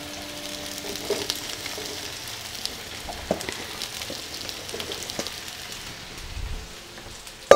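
Sliced zucchini frying in oil in two skillets: a steady sizzle with scattered small pops and crackles.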